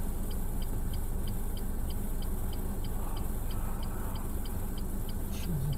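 Steady road and engine rumble of a car heard from inside the cabin by a dash camera, with an even light ticking, about three ticks a second.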